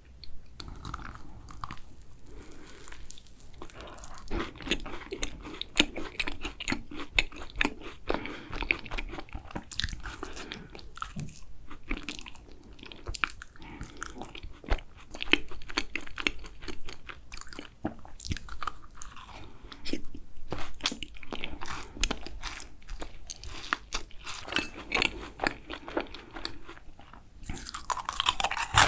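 Close-miked chewing and biting of food: dense, irregular crisp crunching and mouth sounds, louder near the end.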